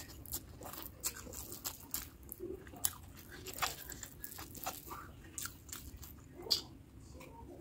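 Close-miked chewing of mutton curry and basmati rice: wet mouth sounds broken by irregular sharp crunches, the loudest about three and a half seconds in and again near the end.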